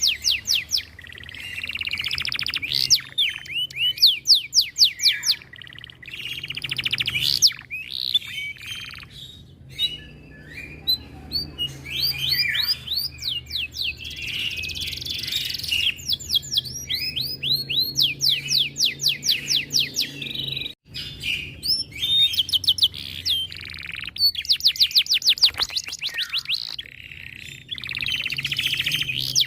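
Domestic canary singing a long, almost continuous song of rapid trills: runs of fast, evenly repeated falling notes that switch to a new phrase every second or two, with a few short breaks. A faint steady hum lies underneath.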